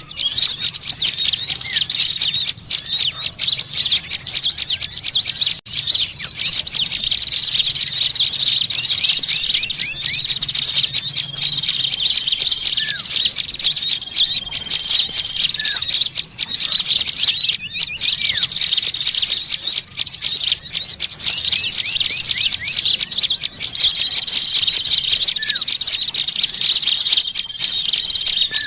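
A noisy chorus of many small birds chirping and twittering over one another in a dense, continuous high-pitched clamour, with a few held whistles and short rising notes. This is a bird-lure ('pikat') recording of agitated small birds, made to draw other small birds in.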